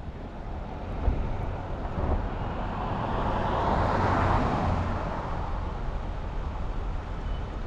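Highway traffic: a vehicle passes at speed, its tyre and engine noise rising to a peak about four seconds in and fading away, over a steady low rumble.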